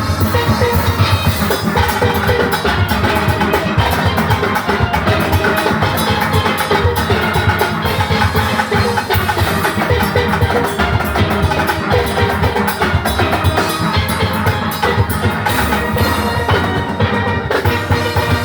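Steel orchestra playing: many steelpans over a drum kit and percussion, keeping a steady beat.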